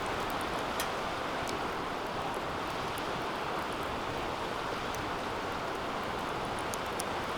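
Wood fire burning hard in a DOD Mecha Moe Fire 2 fire pit: a steady rushing roar of flame with scattered small crackles and pops, the sharpest about a second in and again near the end.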